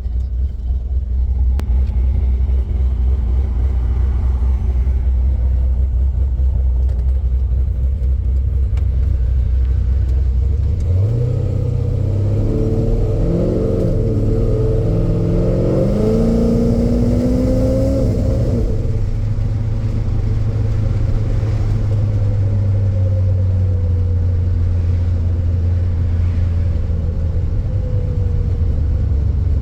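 C5 Corvette's V8 engine running as the car is driven: a steady low drone that steps up about eleven seconds in and climbs in pitch for several seconds under acceleration, then settles into a steady, higher cruising drone.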